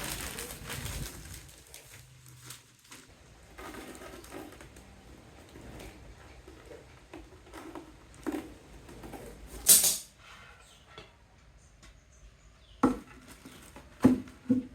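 Plastic wrap rustling and scattered knocks as a wooden hive box is wrapped and handled, with one loud sharp crackle about ten seconds in and a quick run of knocks near the end.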